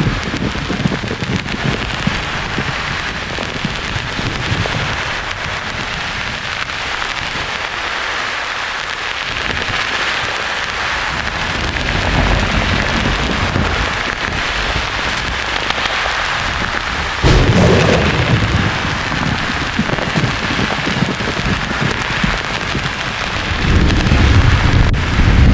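Thunder rolling over a steady hiss. A low rumble fades over the first few seconds. A sudden clap about 17 seconds in rolls on, and another rumble builds near the end.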